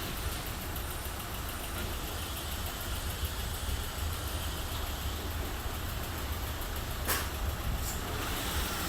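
Belanger FreeStyler car wash machinery running between spray passes: a steady low hum, with two brief hisses of spray about seven and eight seconds in.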